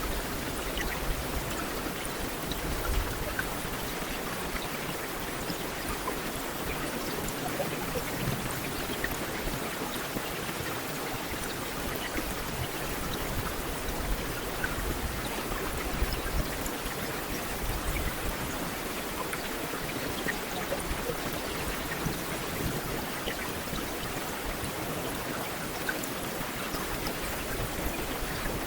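Heavy rain falling steadily: a dense, even hiss with countless small drop patters and a low rumble underneath.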